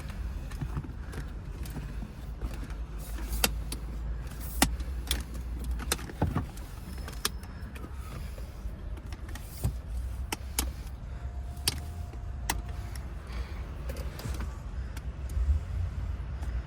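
Scattered sharp clicks and clatter of keys and lock parts being worked at a vehicle, over a steady low rumble. A short steady tone sounds about two-thirds of the way through.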